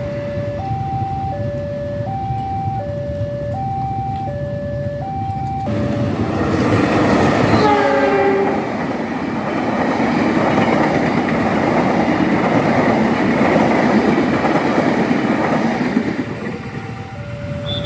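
A railway level-crossing warning signal sounds two alternating tones, switching a little faster than once a second. About six seconds in a train arrives and sounds its horn once, a chord of several notes lasting about a second. The rumble and clatter of its wheels then drown the signal until the alternating tones come back near the end.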